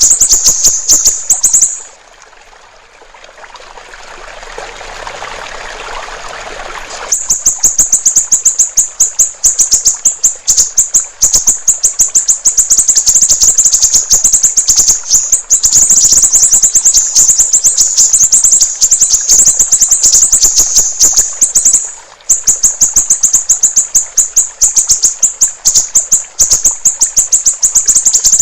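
Siri-siri bird singing a loud, high-pitched, rapid chattering song of fast repeated notes. It pauses for about five seconds near the start while a rushing hiss of water rises, then resumes, with another brief break about 22 seconds in.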